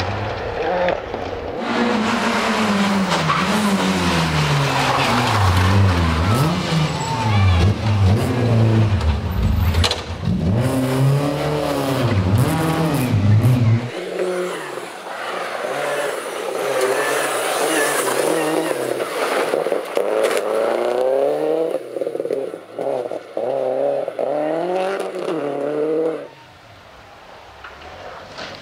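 Rally cars driven flat out on a stage, engines revving hard and repeatedly rising and falling in pitch through gear changes and lifts, with some tyre noise. The sound changes abruptly about halfway through, and it drops to a much quieter level near the end.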